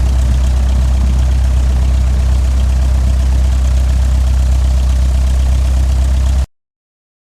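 Cessna 172's piston engine running steadily, a deep even drone with propeller noise above it, cutting off abruptly near the end.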